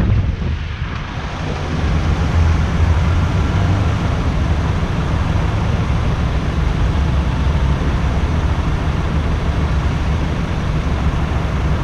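Honda XRE 190's single-cylinder engine idling steadily as the motorcycle sits stopped at a light. Wind noise dies away in the first second or two as the bike comes to a halt.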